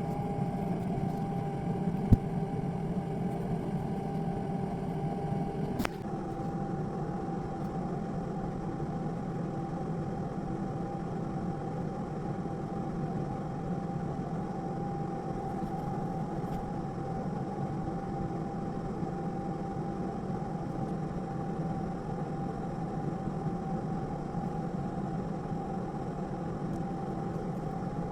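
A steady mechanical hum with a held tone, as of a motor running. There is a sharp click about two seconds in. At about six seconds a second click comes and the hum drops slightly in level, then runs on evenly.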